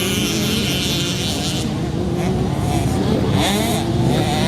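Several 65cc two-stroke motocross bikes racing, their engines rising and falling in pitch as the riders open and close the throttle.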